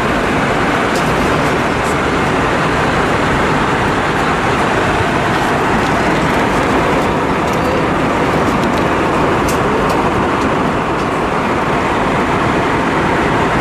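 Steady cabin roar inside an Airbus A320-232 airliner in flight: airflow over the fuselage mixed with its IAE V2500 turbofan engines, with a few faint ticks.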